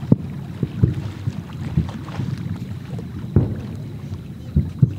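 Fireworks bursting: a string of low booms at uneven intervals, about six in five seconds, over a steady low rumble.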